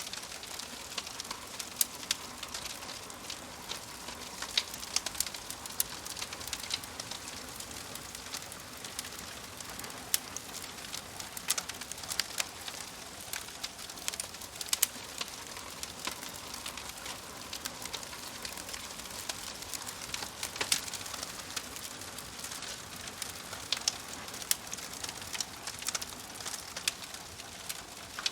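Wood fire in a wood-burning stove crackling: a steady hiss with frequent sharp, irregular pops and snaps.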